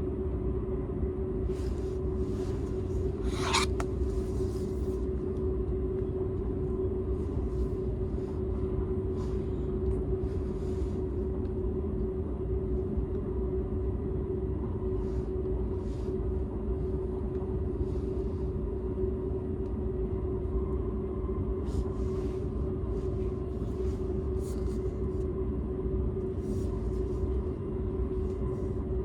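Inside a Seibu 001 series Laview limited express train car running along the line: a steady low rumble of wheels on rail with a constant hum, and scattered faint clicks. A brief high squeal falls in pitch about three and a half seconds in.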